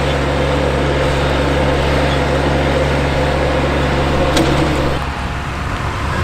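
A motor vehicle's engine running at a steady low pitch, changing about five seconds in.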